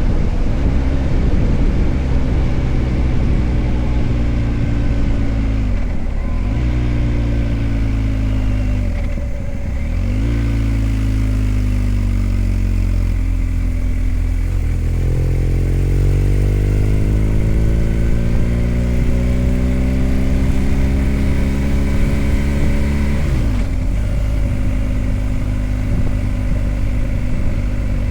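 BMW R1250GS Adventure's boxer twin engine under way, its note climbing as the bike accelerates and dropping sharply at three gear changes, about 6, 9.5 and 23.5 seconds in. Steady wind and road noise runs underneath.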